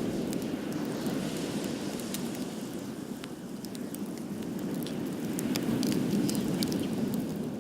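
Wood fire burning, with frequent small crackles and pops scattered irregularly over a steady low rushing.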